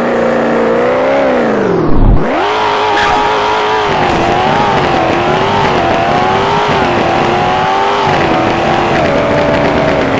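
Maserati Levante Trofeo's twin-turbo V8 being driven hard. Its pitch drops away about two seconds in with a sharp bang. It then climbs quickly and holds at high revs with a wavering pitch, stepping down a few times near the end.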